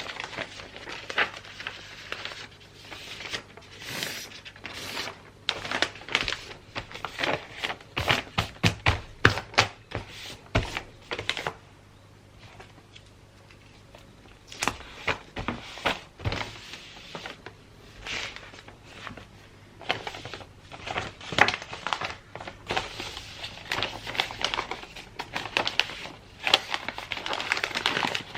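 Gift wrapping paper being handled and folded, crinkling and rustling, with sharp taps and knocks mixed in. There is a brief quieter lull about halfway through.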